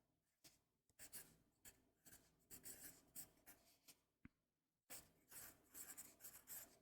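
Writing on paper: a run of quick, scratchy strokes that pause briefly a little past four seconds in and then resume.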